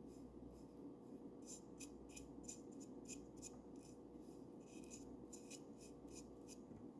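Faint, quick paintbrush strokes scratching paint onto a wooden bird house, about three strokes a second in two runs with a short pause between them, over a steady low hum.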